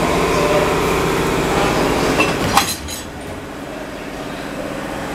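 Steady running of a standing train's engine and equipment. A single sharp metallic clank comes about two and a half seconds in, after which the running sound is quieter.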